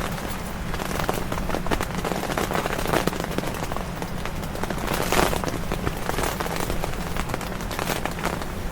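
Rain hitting the tent fabric in many irregular taps, over the steady low hum of a portable air conditioner running inside the tent.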